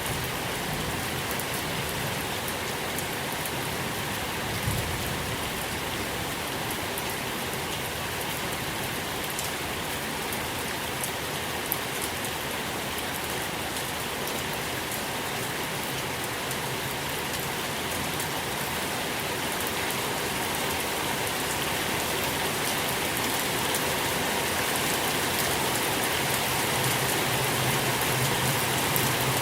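Steady rain falling, an even hiss of many drops with occasional single drop ticks. The level swells gently near the end.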